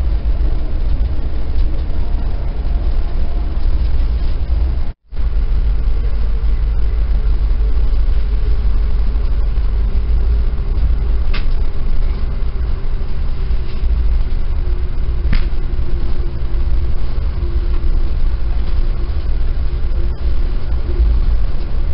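Steady low rumble of an Amtrak passenger coach in motion, heard from inside the car, with a faint steady hum and a few light clicks. The sound cuts out completely for a moment about five seconds in.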